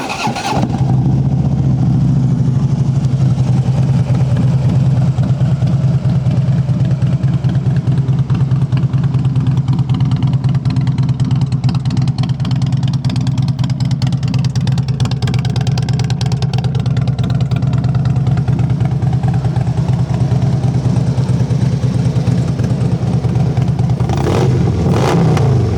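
Harley-Davidson Street Glide's 103-cubic-inch air-cooled V-twin idling steadily with an even, pulsing exhaust note, which sounds aggressive. It swells briefly near the end.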